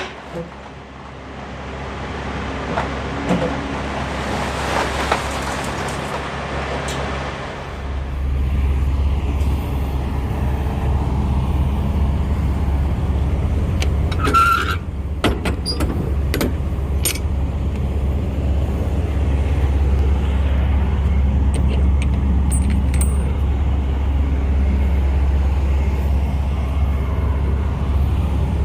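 Kenworth W900 semi truck heard from inside the cab: a hiss for the first several seconds, then a steady low engine and road rumble from about eight seconds in, with scattered clicks and rattles.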